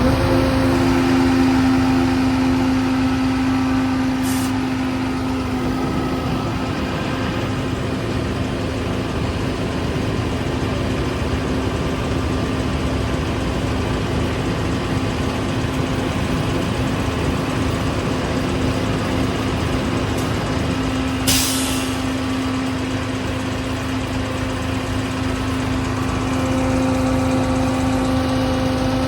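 Jet fuel truck's engine running steadily with the PTO fuel pump engaged, a constant hum with one held tone. A short, sharp hiss of air about 21 seconds in, and a fainter one about 4 seconds in.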